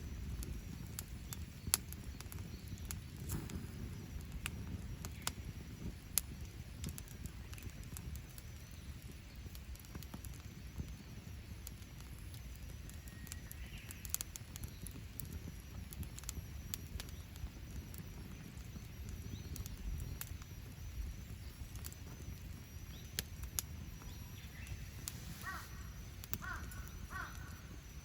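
Wood fire in a fire pit crackling, with scattered sharp pops over a low steady rumble. Near the end a bird calls a few times in short notes.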